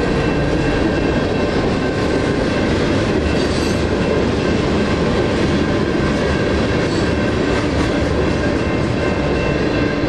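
Freight train's hopper and tank cars rolling past at a grade crossing: a steady, loud rumble of steel wheels on rail. The crossing's NEG electronic bells ring on over it.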